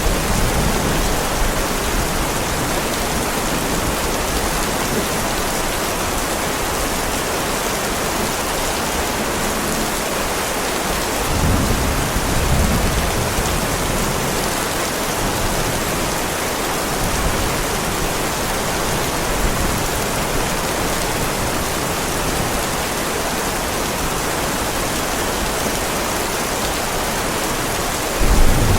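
Heavy rain falling on a driveway, a steady even hiss. Low rumbles of distant thunder swell about eleven seconds in and again near the end.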